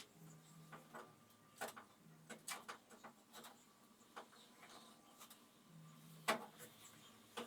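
Faint scattered clicks and light knocks, irregularly spaced, with one sharper knock about six seconds in.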